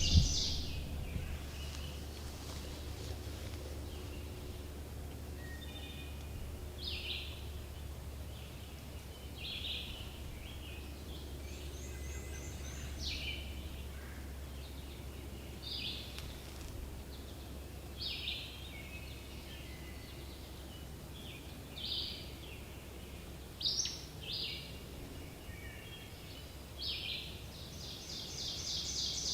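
Songbirds calling and singing in short phrases every second or two, some with rapid trills at the start and near the end, over a steady low rumble.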